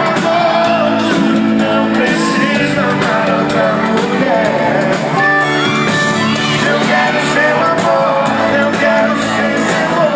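Live band performing a song with a singer, guitar and a steady drum beat.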